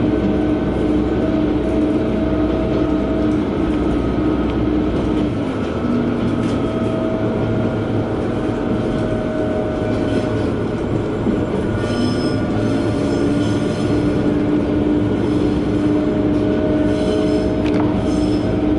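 KiHa 120 diesel railcar running along the line, heard from inside the car: a steady engine and wheel rumble with a pitched drone that drops about five seconds in and climbs back a few seconds later. Faint high wheel squeals come in about twelve seconds in and again near the end.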